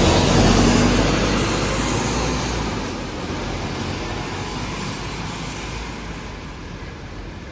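Scania K230UB city bus pulling away, its engine and road noise growing steadily fainter as it moves off.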